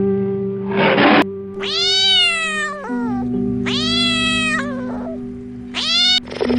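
A cat meowing three times, each call rising and then falling in pitch, the last one short, over steady background music. A short burst of noise comes about a second in.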